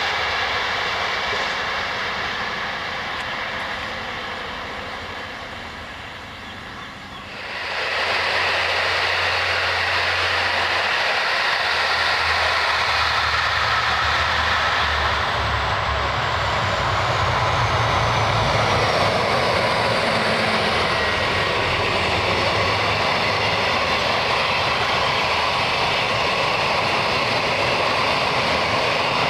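Train passing close by: a steady rushing running noise with a low hum underneath. The noise fades for the first few seconds, then rises suddenly about seven seconds in and stays loud.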